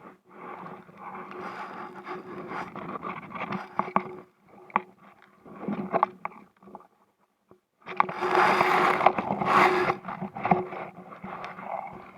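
Scraping, rubbing and knocking against an inflatable kayak close to the microphone, irregular and broken by short pauses, loudest about eight to ten seconds in.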